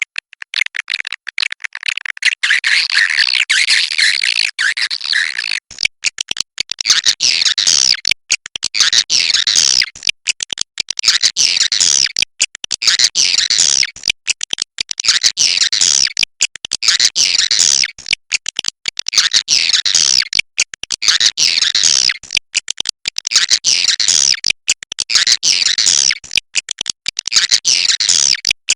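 Swiftlets twittering: a swiftlet roosting lure call. Dense, rapid, high chirping comes in phrases about every two seconds, with short breaks between them.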